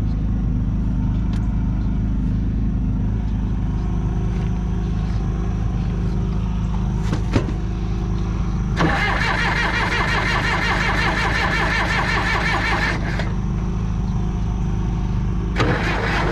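Diesel engine of a 1976 John Deere 450C crawler dozer running steadily. About nine seconds in, a loud, rapid metallic clatter starts over it and lasts about four seconds, then starts again near the end.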